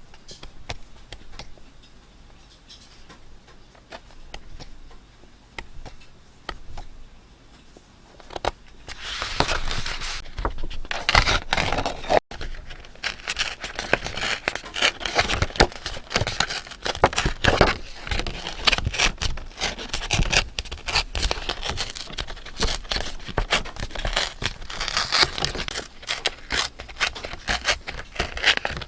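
Paper being handled by hand: faint scattered taps and rustles at first, then from about eight seconds in, dense, busy rustling and scraping of paper.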